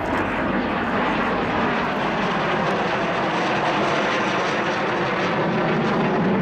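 Lockheed T-33 Shooting Star jet trainer in a display flight, its single turbojet engine giving a steady, loud jet noise.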